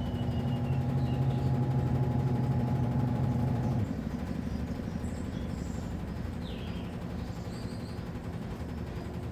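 Midea Wave-Agitator top-load washing machine running mid-cycle: its motor hums steadily, then cuts off about four seconds in, leaving a lower, rougher rumble.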